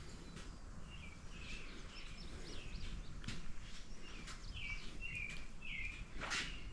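Small birds chirping, short calls repeated again and again over a low, steady outdoor background noise, with one brief sharp noise about six seconds in.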